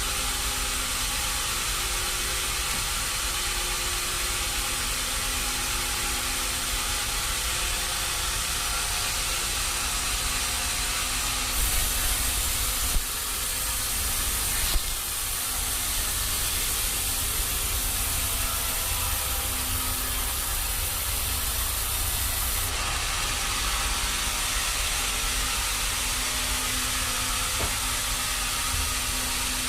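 Sawmill machinery running steadily: a loud, even hiss over a low, steady hum. The hiss grows brighter for about ten seconds partway through, with two abrupt changes that sound like edits.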